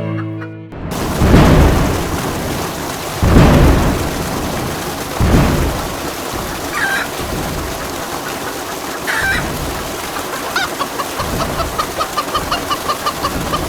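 Steady rain with three heavy rolls of thunder in the first five seconds. Chicken calls come through later, turning into a run of quick clucks near the end.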